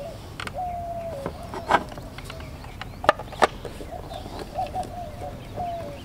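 A bird calling over and over in the background, a string of steady-pitched calls that drop at their ends. Several sharp clicks and knocks of hard plastic come from the trolling motor's head cover being handled and fitted back on, the loudest pair about three seconds in.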